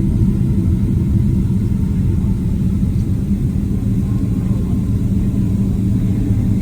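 Steady low rumble of a Boeing 767-300's engines and airflow heard inside the passenger cabin.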